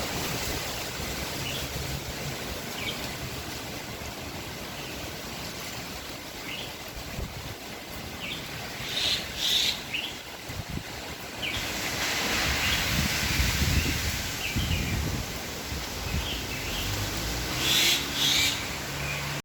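Blustery outdoor wind rumbling on the microphone in gusts, with small birds chirping in short calls throughout; a stronger gust with a rising hiss comes about twelve seconds in.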